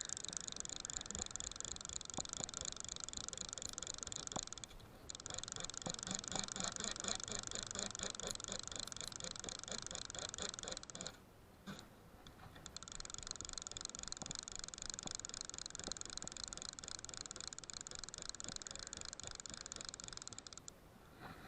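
Fly reel with a click-and-pawl drag ratcheting rapidly as line is wound in, in three long runs with brief pauses between them.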